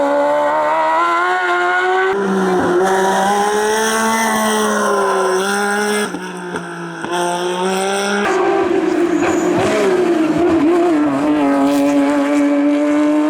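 Hillclimb race car engines under hard acceleration, their pitch rising and falling with revs and gear changes. The sound changes abruptly about 2, 6 and 8 seconds in, as from one car or shot to another.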